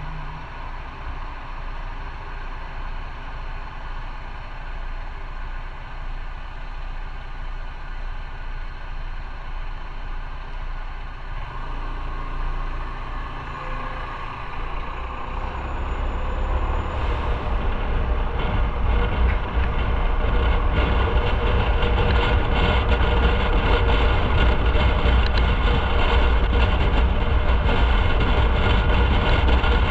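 Motorcycle on the move, its engine and rushing road and wind noise running steadily. About halfway through, the noise grows much louder and heavier in the low rumble, and it stays loud.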